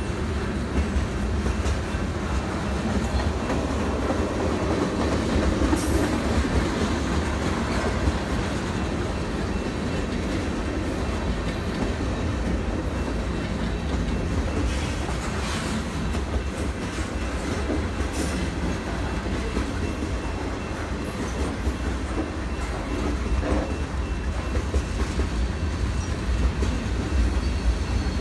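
Freight train cars rolling past close by: a steady rumble of steel wheels on the rails, with a few brief sharp high-pitched sounds about 6, 16 and 18 seconds in.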